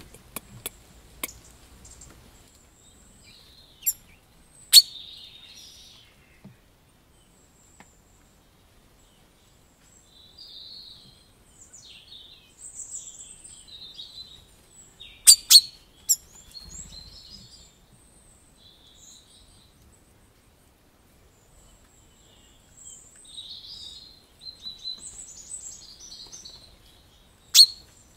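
Birds chirping and singing in scattered high phrases, with several sharp clicks, the loudest a close pair about halfway through and one near the end.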